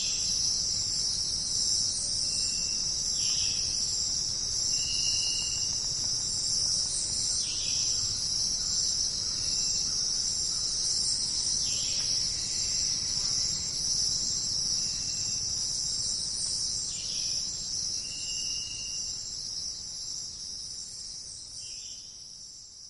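Dense, steady chorus of crickets, with a few short faint calls over it every couple of seconds; the sound fades out near the end.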